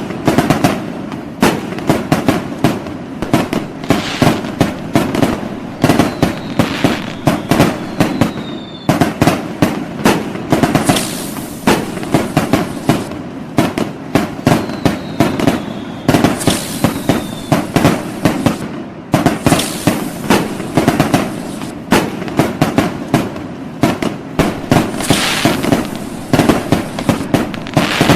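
Fireworks and firecrackers going off in a dense, nonstop barrage of sharp bangs. Whistling fireworks sound twice, each whistle falling slightly in pitch.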